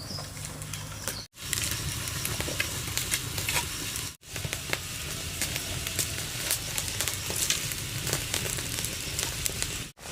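Food sizzling in a hot pan, with a dense hiss and many small crackles. The sound cuts out for an instant twice, about a second in and about four seconds in.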